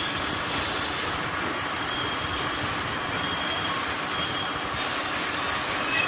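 Railway tank wagons rolling slowly across a level crossing: a steady rumble of wheels on rail, with a few short, faint wheel squeals.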